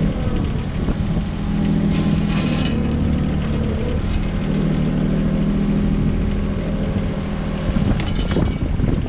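An engine of working machinery running steadily at a constant speed, with a brief hiss about two seconds in and a few clanks near the end.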